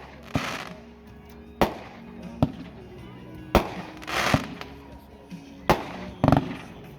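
A 16-shot 500-gram consumer fireworks cake firing: about seven sharp bangs at uneven spacing of roughly a second, some followed by a hissing crackle.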